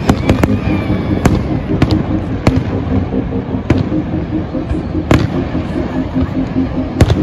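Fireworks display going off: a string of sharp, irregularly spaced bangs and cracks, roughly one or two a second, over a continuous rumble.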